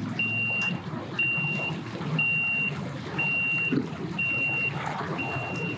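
Vehicle reversing alarm beeping steadily about once a second, six high-pitched beeps, over the low rumble of an engine.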